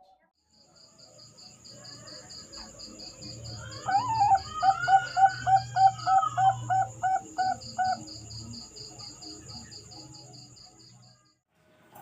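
Zebra dove (Bangkok perkutut) cooing: a rising opening note, then a run of about a dozen quick, evenly spaced coos. The song starts about four seconds in and is the loudest sound. Insects keep up a steady high pulsing chirp throughout.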